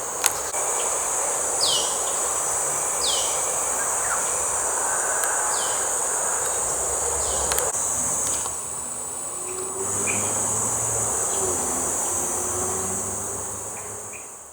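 Steady high-pitched drone of insects, with a bird giving short falling call notes every second or two over a low background rumble; the sound fades out at the end.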